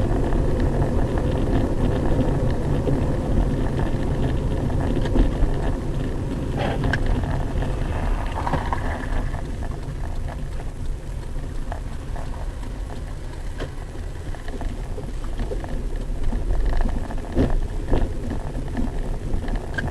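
Steady vehicle running noise, a low rumble with a crackling hiss and scattered small clicks, as picked up by a car's dashcam.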